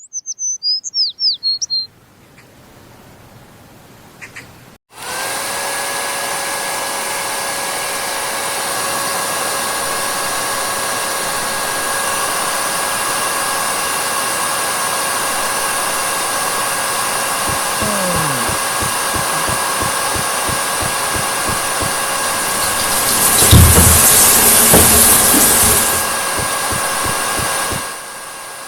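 Birds chirp briefly, then about five seconds in a hair dryer switches on and runs with a steady blowing whine. It grows louder and hissier for a few seconds near the end, then drops back.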